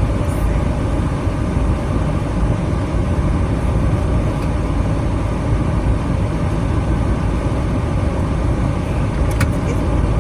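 Minivan on the move: a steady, even low rumble of road and engine noise, with a couple of faint clicks near the end.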